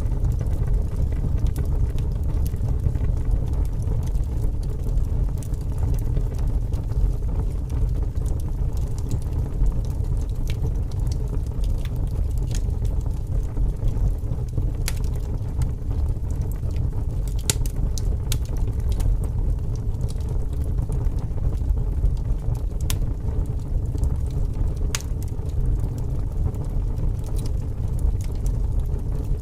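Wood fire burning, with irregular crackles and a few sharper pops, over a steady low rumble of strong wind.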